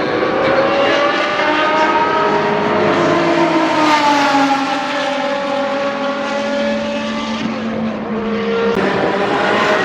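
Group C prototype race car engine at high revs on track, its pitch climbing for the first few seconds and then dropping steadily as the car goes by. Near the end another engine note starts rising.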